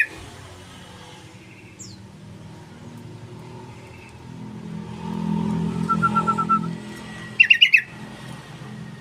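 Yellow-vented bulbul (trucukan) call: a quick, loud burst of about six chattering notes, with a faint high note earlier. In the middle, a low hum swells and fades.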